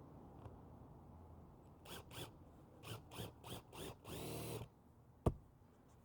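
Power drill driving a screw into a wooden shed board: a string of short trigger pulses, then a longer run of about half a second, followed by one sharp knock about five seconds in.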